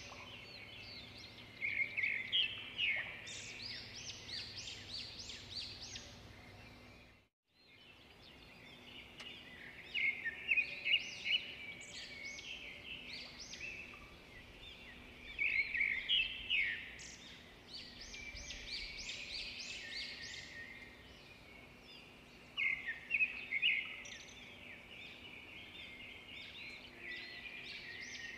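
Songbird singing a rapid, jumbled phrase of chirps, repeated every several seconds over faint background noise. The sound drops out completely for a moment about seven seconds in.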